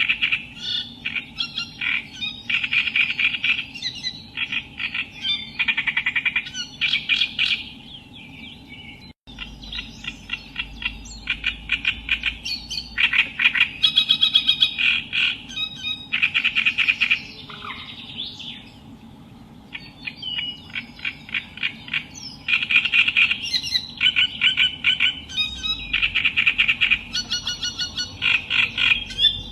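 Reed warbler (Acrocephalus) singing: phrases of fast repeated notes, broken by short pauses. The sound cuts out for an instant about nine seconds in.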